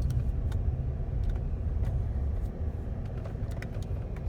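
Car driving slowly, a steady low road and engine rumble with a few light clicks and rattles.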